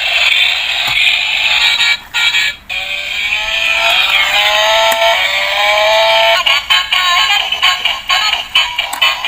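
Tinny electronic music and sound effects from a battery-powered toy race car's built-in speaker, with a gliding tone midway through and a quick rhythmic pattern after it.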